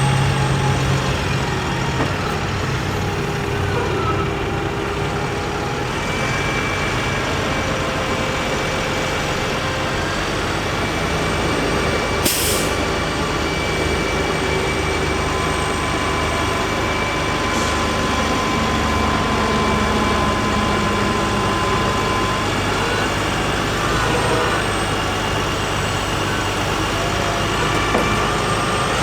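International DT466 diesel engine of a digger truck running steadily, with faint whining tones that shift over time. A short burst of hiss comes about twelve seconds in.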